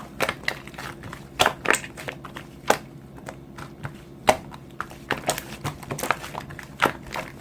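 Irregular crinkling and crackling clicks, several a second, a few much sharper than the rest, over a faint steady hum.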